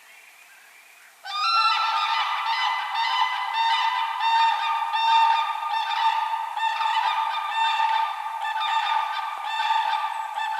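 A flock of geese honking, many overlapping calls repeating a few times a second, starting suddenly about a second in after a faint lull.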